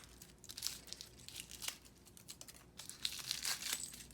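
Gold foil wrapper of a Lindt Gold Bunny crinkling and tearing in the hands, a string of quick irregular crackles.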